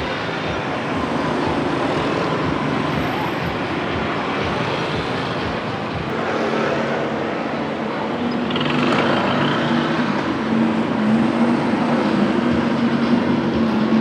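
Street traffic: motorbike and car engines running and passing. About halfway through, a steady engine hum comes in and grows a little louder.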